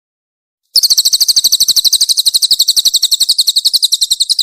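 Cililin (pin-striped tit-babbler) singing a fast, tightly packed run of high chattering notes, about eleven a second. The run starts about a second in and keeps going to the end.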